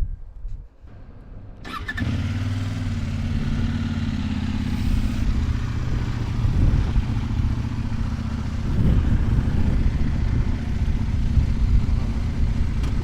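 CFMOTO 800NK motorcycle's parallel-twin engine started about two seconds in, catching at once and running steadily, its revs rising and falling a little later on.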